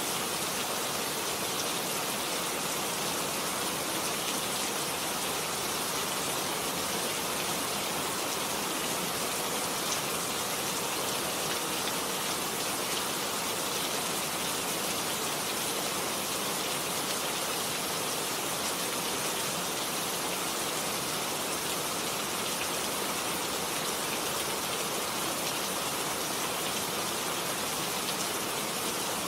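Steady heavy rain falling on garden plants, a dense, even hiss of drops with no thunder.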